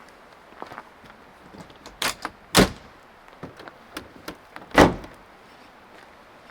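A series of sharp knocks and thuds with lighter clicks between them; the two loudest come about two and a half seconds in and just before five seconds in.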